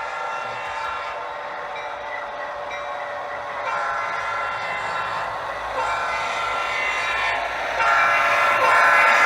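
Sound system of an HO scale model diesel locomotive playing a chord air horn, thin and with little bass. The horn sounds steadily, then swells into long blasts about four, six and eight seconds in, and the last blast is the loudest.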